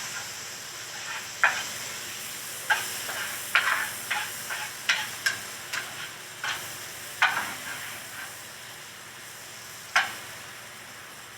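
Food sizzling in a frying pan while a cooking utensil stirs it, scraping and tapping against the pan at irregular moments. The sizzle eases off slightly near the end.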